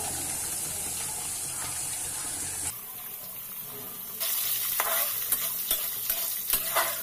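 Black soybeans sizzling as they fry in hot oil in a kadhai. From about four seconds in the sizzle is louder, with short scraping strokes of the beans being stirred.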